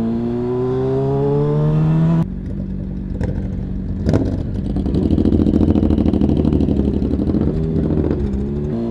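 Vehicle engine accelerating, its pitch rising steadily for about two seconds, then cutting off abruptly. A rougher, pulsing engine rumble follows, with a sharp click about four seconds in and the engine pitch climbing again near the end.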